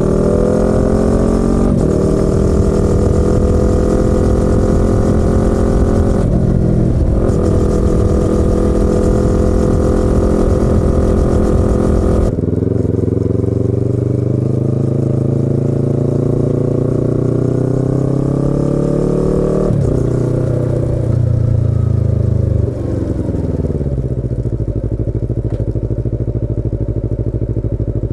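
Yamaha YZF-R25's parallel-twin engine and exhaust under way: held at high revs with brief dips at gear changes, then the revs fall away about twelve seconds in and step down further in falling sweeps, like closing the throttle and downshifting.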